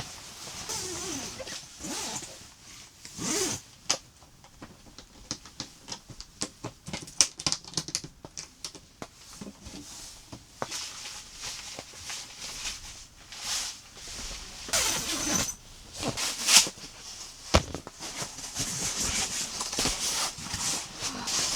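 Hands handling gear: irregular rustling and swishing with many small clicks and knocks, and a longer stretch of rustling near the end.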